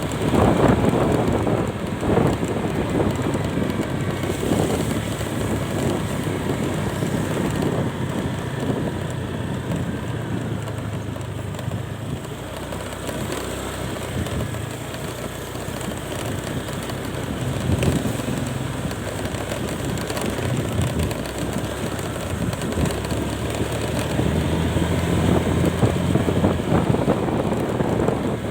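Wind rushing over the microphone while riding, over a vehicle's engine running steadily underneath.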